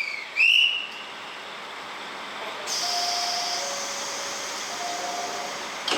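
Train departure sounds at a railway platform: a short high whistle blast about half a second in, then a steady hiss that starts before the middle, with faint steady tones under it.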